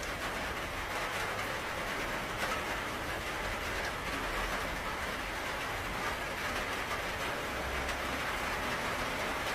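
Steady rain falling, an even hiss with a faint low rumble underneath.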